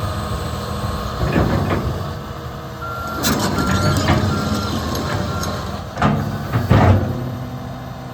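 Deere 350P hydraulic excavator running, with its travel alarm beeping four times as the machine moves. There are two heavy clunks near the end, the loudest sounds.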